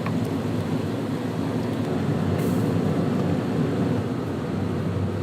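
Steady low machinery rumble aboard a ship, even in level throughout, with a brief faint hiss about halfway through.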